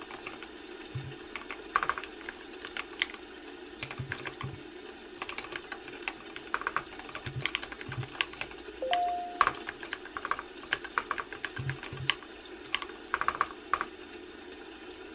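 Typing on a computer keyboard: irregular runs of keystroke clicks with short pauses between them. A brief two-note rising tone sounds once, about nine seconds in.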